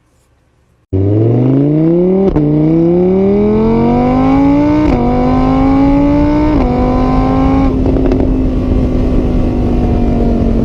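A motor vehicle's engine accelerating hard through the gears, starting suddenly about a second in. Its pitch climbs and drops back at each of four shifts, then holds steady at speed.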